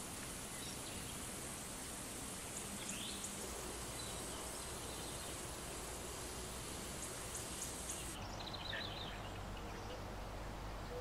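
Outdoor garden ambience: a steady background hiss with faint, scattered chirps of small birds. The high hiss drops away about eight seconds in, and a quick run of chirps follows.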